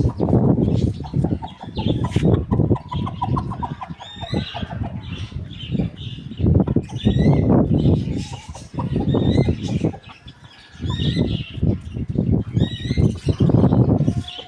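Rooster and hen clucking, with repeated loud bursts of low rustling and thin, high wavy chirps over them.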